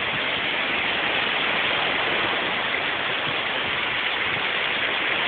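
A small waterfall, a stream spilling down over rock, making a steady rushing splash.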